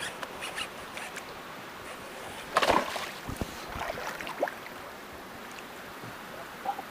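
Small knocks and rustles of a fishing kayak on the water, with one louder brief swishing burst about two and a half seconds in.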